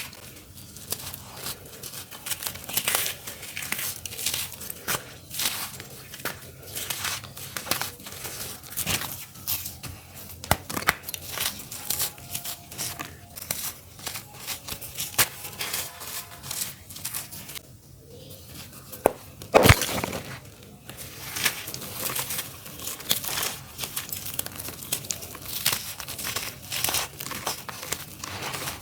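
Clumps of dry earthy dirt being crumbled, a dense, irregular run of crunches and gritty crackles, with one louder knock a little after two-thirds of the way through.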